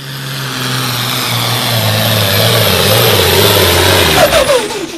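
Super Stock 4x4 pulling truck's engine running loud at high revs, its pitch wavering and sagging as it labours. About four seconds in, the revs drop off quickly as the engine is let off.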